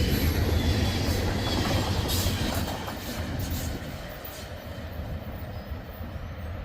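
Freight train cars rolling past on the rails, wheels rumbling with a few sharp clicks, the sound fading away from about halfway through as the end of the train goes by.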